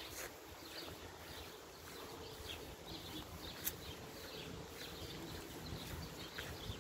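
Small birds chirping on and off in the park trees, short high calls scattered throughout, over a faint low rumble. A single sharp click about three and a half seconds in.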